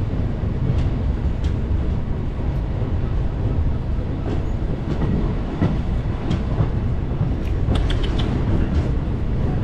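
Inside an ICF third AC passenger coach as the train gets under way: a steady low rumble from the running train, with creaks and scattered clicks from the coach body and couplings.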